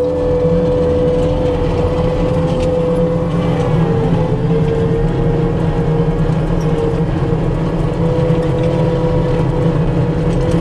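New Holland 232 track skid steer's diesel engine running steadily, with a constant whine over the low rumble that wavers briefly a few seconds in.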